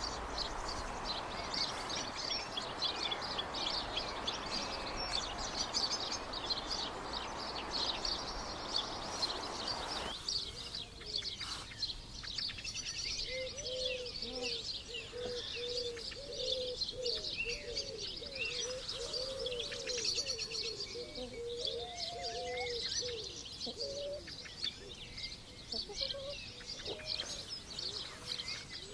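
Many small birds chirping and singing in a dense, high chorus. Under it, a low cooing bird calls over and over through the middle stretch. For the first ten seconds a steady rushing noise runs beneath the birdsong and stops abruptly.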